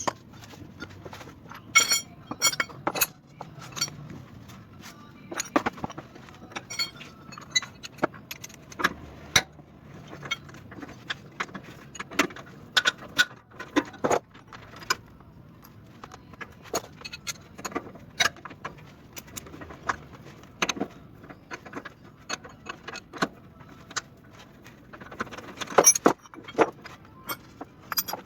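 Metal hand tools clinking, tapping and knocking in irregular sharp clicks while the steering center arm of a Mitsubishi L300 is taken apart, with a louder clatter near the end.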